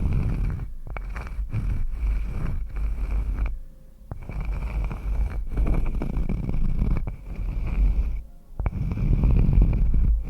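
Close-miked ASMR trigger sounds: dense scratchy rubbing made of many quick strokes, with short pauses about four and eight seconds in.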